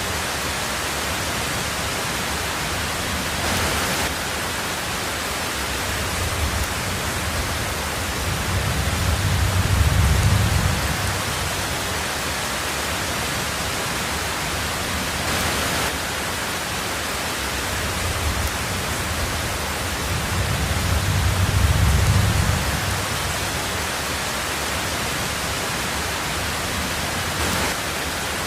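Heavy rain drumming steadily on a tin roof, with two low rumbles of thunder that swell and fade, one about ten seconds in and one around twenty-two seconds.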